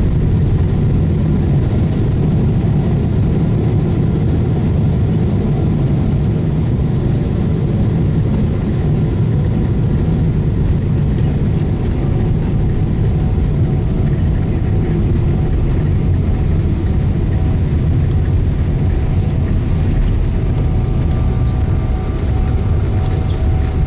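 Cabin noise inside a Boeing 777-300ER: a loud, steady rumble of its GE90 engines and airflow, with faint steady engine tones coming in about halfway through.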